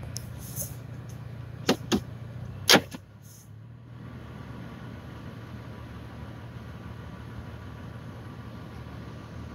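A car engine idling steadily with a low hum, broken by three sharp clicks a little under two and about three seconds in, which are the loudest sounds.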